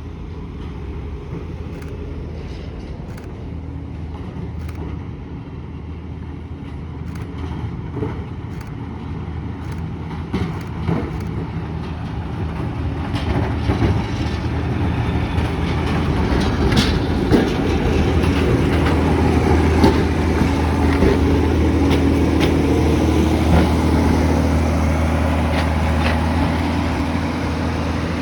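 Heritage electric tram approaching on its track, a steady motor hum with scattered clicks from the wheels on the rails. It grows steadily louder and is loudest about two-thirds of the way through.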